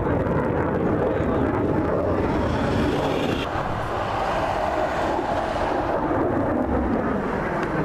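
Airplane engine noise: a steady, loud drone that dips slightly about three and a half seconds in.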